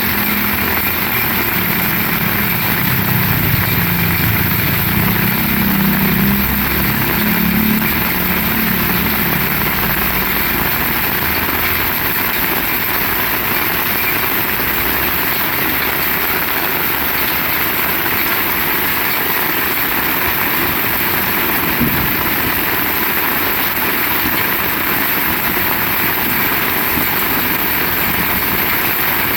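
Heavy rain falling steadily, a dense even hiss. A low rumble runs under it for the first several seconds and then fades, and there is one soft knock about three quarters of the way through.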